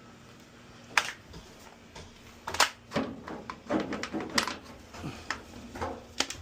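Sharp clicks and knocks with rougher scraping between them, several in a few seconds, as a dryer's cabinet panel and parts are handled and shifted.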